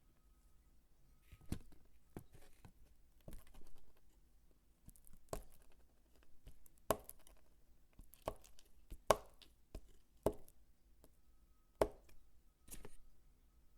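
Soap being chopped with a knife: sharp, irregular cuts roughly once a second, some followed by a brief crunch as the soap breaks apart.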